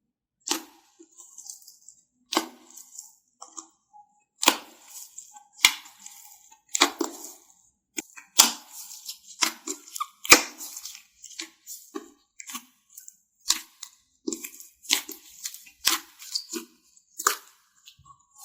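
Strawberry-banana slime with sprinkles squeezed and pressed by hand, giving sharp pops and crackles about once a second with smaller crackles between.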